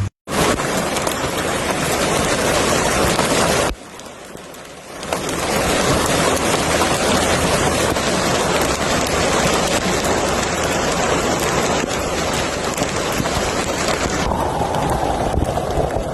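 Heavy rain falling, a dense steady hiss that drops away for about a second around four seconds in. Near the end the sound turns duller and lower, losing its high hiss.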